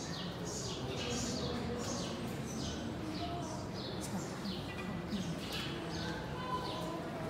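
Birds chirping repeatedly, short high chirps that slide downward about twice a second, over a steady low background noise.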